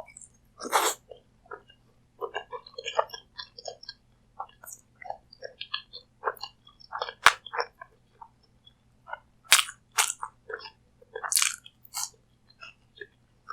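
Close-miked eating: crisp bites and chewing, a run of uneven short crunches and wet mouth smacks with a few louder crunchy bites.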